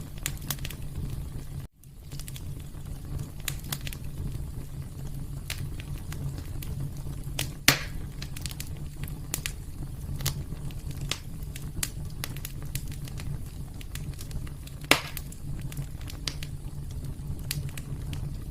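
Wood fire burning in a fireplace: a steady low rumble with frequent small crackles and two louder pops, about eight seconds in and near fifteen seconds. The whole sound briefly drops out for a moment about two seconds in.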